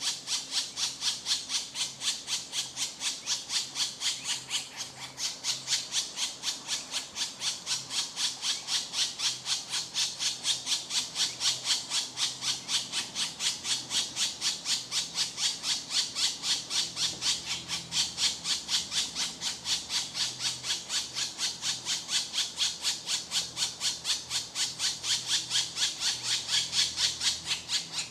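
Woodpecker nestlings begging in the nest: a continuous, rapid series of short, raspy, high-pitched calls, several a second, without a break.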